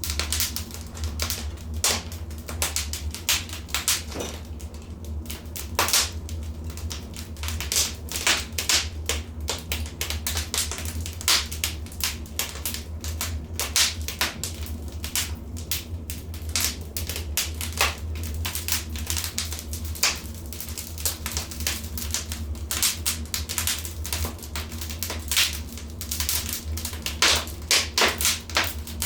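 Wood fire crackling and popping in a fireplace, with many irregular sharp snaps, some louder than others, over a steady low hum.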